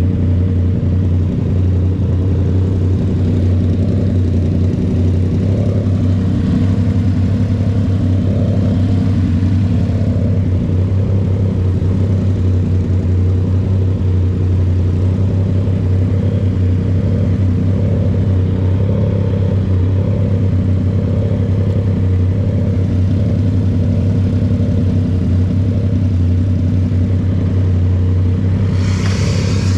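Motorcycle riding at fairly steady revs through an aftermarket SC-Project CRT exhaust on a 2023 Yamaha XSR900 with its inline-three engine, a deep, constant engine note. A rush of higher hiss comes in near the end.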